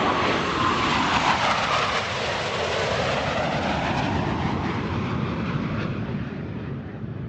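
A jet aircraft flying past with a loud, rushing roar. Its sound sweeps in pitch as it goes by and begins to fade in the last second or so.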